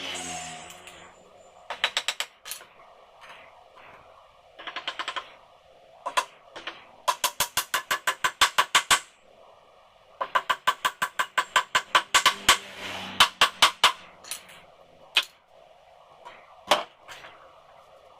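Pneumatic nail gun firing rapidly into a wooden frame: short bursts at first, then long fast runs of about seven shots a second, ending with a few single shots.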